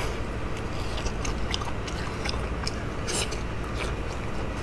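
Close-up wet chewing and biting on braised pork, with a run of short, sharp lip-smacking clicks.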